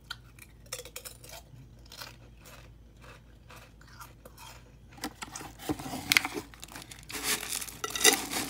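Crunching of a Pringles potato chip being bitten and chewed close to the microphone. It starts about five seconds in and is loudest near the end, after a few faint clicks.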